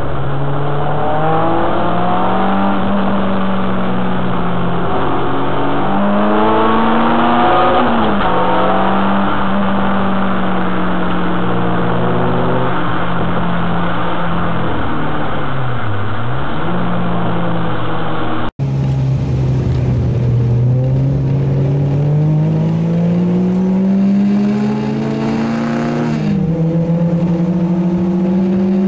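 Renault Clio 2 RS's 2.0-litre four-cylinder engine being driven hard on track, revs climbing through the gears and dropping at each change, with a dip and rise in the middle from braking and downshifting. Near the end it pulls steadily up through the revs before an upshift.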